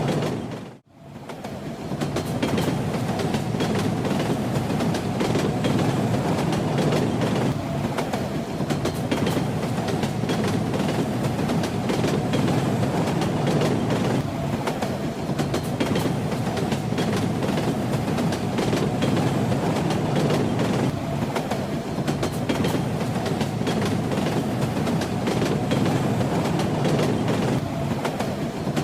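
Train running on rails: a steady low rumble with the clickety-clack of the wheels rattling over the track. About a second in, the sound dips briefly to near silence and then comes back.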